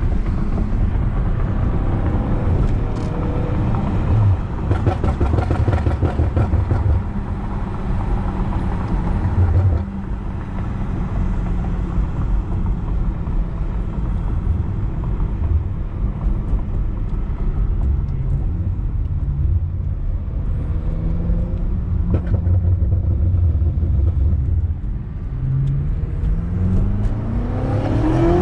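BMW F90 M5 Competition's twin-turbo V8 running steadily through a loud exhaust while driving. Near the end the engine revs climb in a rising pitch as the car accelerates.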